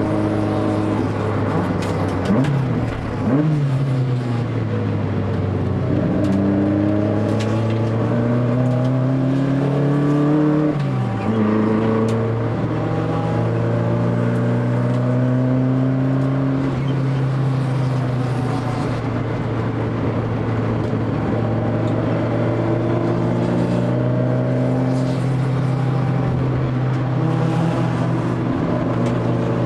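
Honda ZC four-cylinder engine on Solex 44 carburettors with a straight-piped titanium exhaust, running hard on a circuit lap. The revs dip and climb again about three seconds in, then rise steadily until a gear change about eleven seconds in, and hold at a fairly steady high pitch after that.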